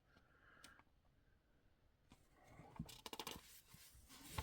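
Near silence, then faint rustling with a few light clicks in the second half: paper pages of a magazine being handled and turned.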